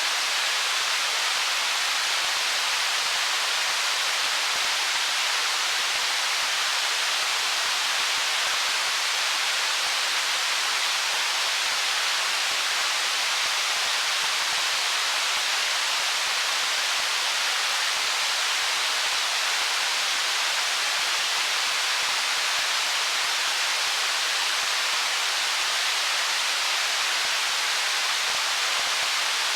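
A stream flowing over rocks: an even, unbroken rushing hiss that never changes.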